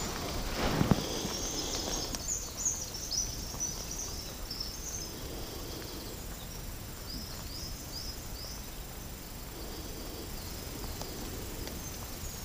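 Small woodland songbirds singing, runs of quick high chirping notes, over a steady background hiss.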